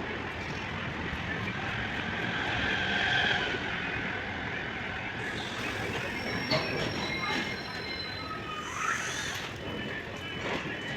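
Passenger train on the rails: a steady rumble and clatter of the coaches, with thin metallic squeals from the wheels on the track around the middle and a single knock about six and a half seconds in.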